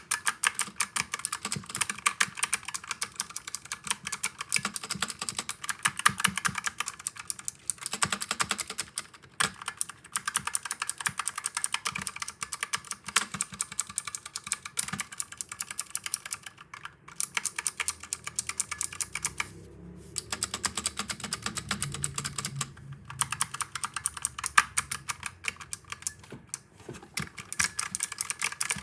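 Razer Huntsman Mini mechanical keyboard being typed on quickly and steadily: a dense run of key clicks and keycap clacks, with a few short pauses.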